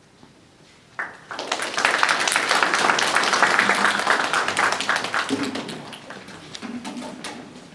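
Concert audience applauding as a guitar ensemble's piece ends. The clapping breaks out about a second in, swells, holds and dies away over the last couple of seconds, with a few voices near the end.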